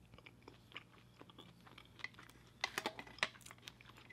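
Close-miked chewing of a forkful of KFC Famous Bowl (mashed potatoes, corn and popcorn chicken with cheese sauce), heard as a run of small mouth clicks with a louder cluster around the three-second mark.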